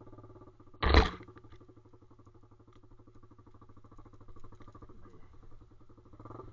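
Pit bike's small single-cylinder engine idling steadily, with a loud, short thump or rustle about a second in.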